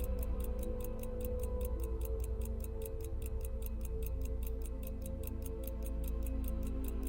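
Even, rapid ticking, about five to six ticks a second, over background music with held notes.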